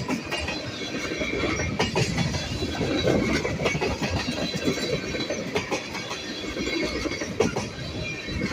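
CN train rolling past slowly, its wheels clicking irregularly over the rail joints above a steady rumble.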